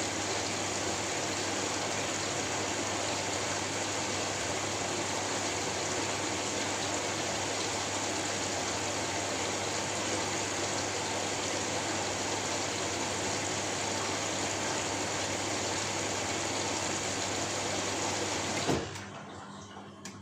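Steady white-noise hiss, like rushing water, with a faint low hum under it. About 19 seconds in it cuts off with a click, leaving a quieter humming background.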